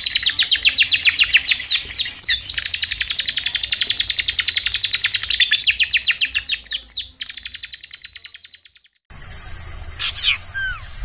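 A sirtu songbird singing a long, loud, rapid trill of evenly repeated notes. It breaks off briefly about seven seconds in, resumes more weakly and fades out. After a short gap, a quieter background follows, with one brief falling bird call.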